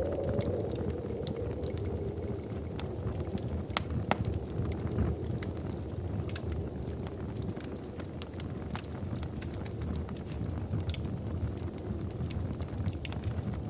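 Wood fire in a fireplace crackling, with scattered sharp pops over a low steady rumble of the flames; two of the loudest pops come close together about four seconds in.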